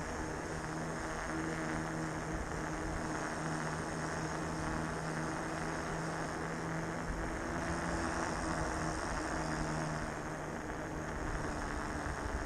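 Electric fatbike on the move: a steady hum with a low, even drone from its 1000 W Bafang motor and wide tyres rolling over the road.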